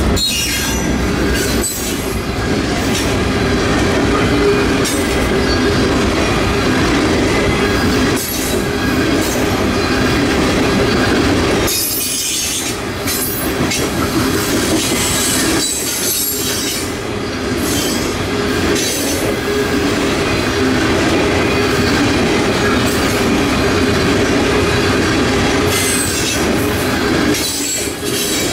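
Freight train rolling past at close range, its wheels clacking over rail joints with intermittent flange squeal.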